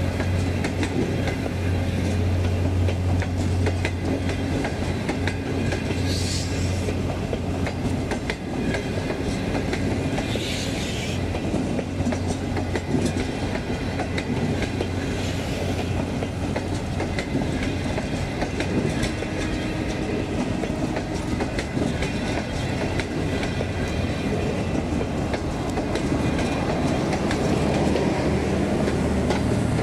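Passenger coaches of a long-distance train rolling past close by, the wheels clacking steadily over the rail joints, with brief high wheel squeals twice in the first half.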